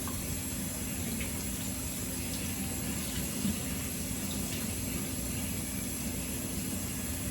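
Steady rush of water running in a kitchen, with a few faint clicks and knocks.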